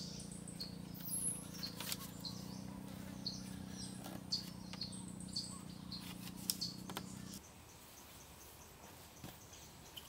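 Wild birds chirping over and over in the forest. Under them runs a steady low hum that stops abruptly about seven seconds in. A few sharp clicks and knocks come from wooden poles being handled and lashed with cord.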